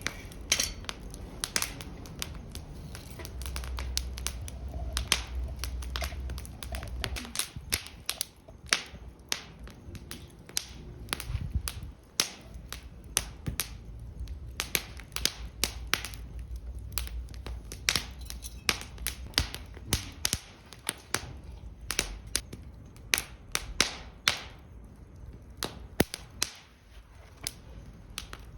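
Wood fire burning in a fire stand, crackling with irregular sharp pops, several a second, over a low rumble.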